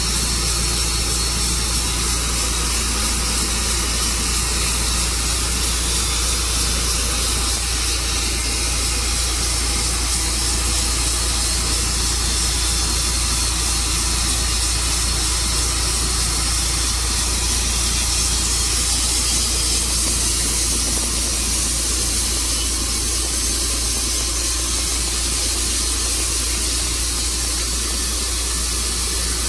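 Tru Cut sawmill running steadily, cutting through a walnut log, with an even, unchanging hiss-like noise.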